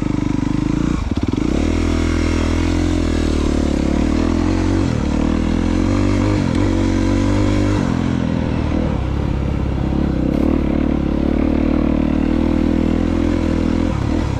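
Honda CRF250R's single-cylinder four-stroke engine running as the dirt bike is ridden, its pitch dipping and climbing again several times with throttle and gear changes.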